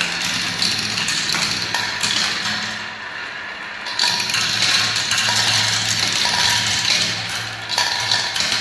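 Many marbles rolling and clattering down plastic spiral marble-run tracks, a dense continuous rattle that eases briefly about three seconds in and picks up again a second later.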